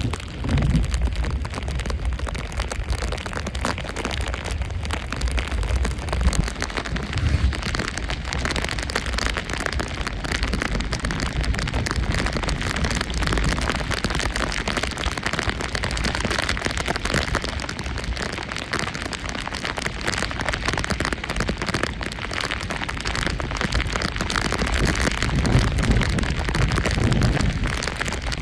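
Storm wind buffeting the microphone in gusts, over a steady rushing noise like rain.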